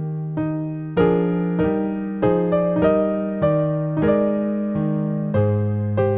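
Slow solo piano music: notes and chords struck about every half second, each ringing and fading.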